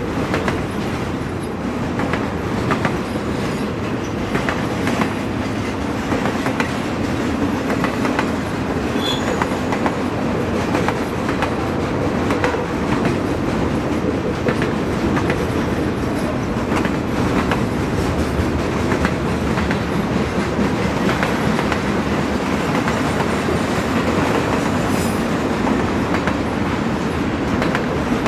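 Double-stack container well cars of a long freight train rolling past at steady speed, the wheels clicking and clattering on the rails over a continuous rumble.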